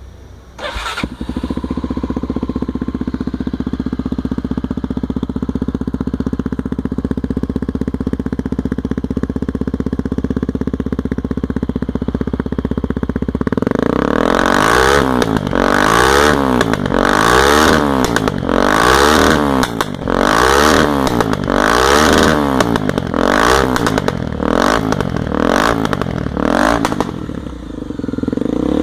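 Honda XR 250 Tornado's single-cylinder four-stroke engine with a new exhaust, starting about a second in and idling steadily. From about halfway it is revved over and over in quick throttle blips.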